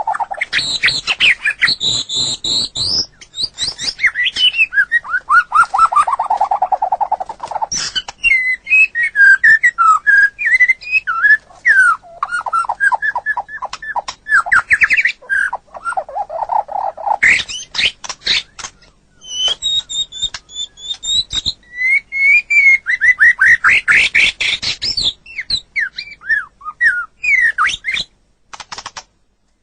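White-rumped shama (murai batu) singing a long, varied song of rich whistles, fast trills and rapid repeated notes, with a few short pauses near the end.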